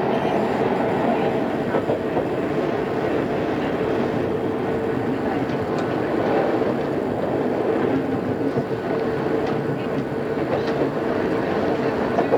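Odakyu 2600 series electric train running, heard from inside the car on an old cassette tape recording: a steady rumble of wheels and running gear with a steady hum, and a few faint clicks of wheels over rail joints.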